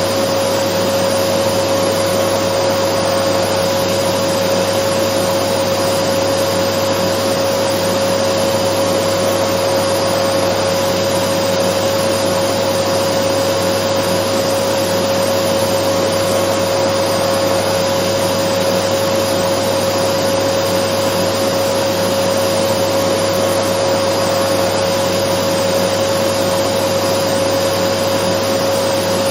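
Dyson vacuum cleaner running steadily: an even rush of air with a constant whine on top, unchanging throughout.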